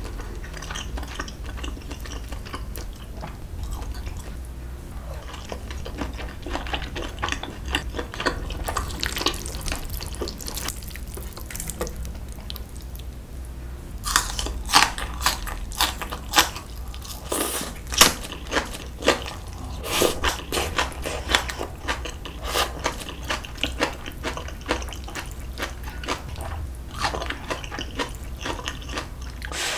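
Close-miked eating: soft, wet chewing of tender beef steak and black-bean noodles, then from about halfway louder, crisp crunching bites as green onion kimchi is eaten with the noodles.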